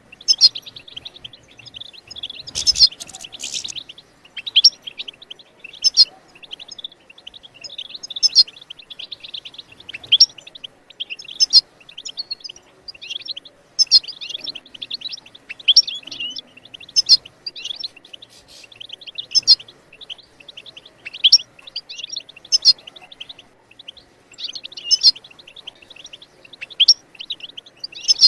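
European goldfinch twittering: fast runs of high chirps and trills in phrases every second or two, with a louder, rougher burst about three seconds in.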